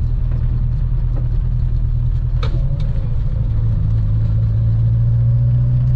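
Renault 4's four-cylinder engine running with road noise, heard from inside the cabin while driving. The engine hum rises slightly in pitch and grows a little stronger about three seconds in, then holds steady. There is a short click about two and a half seconds in.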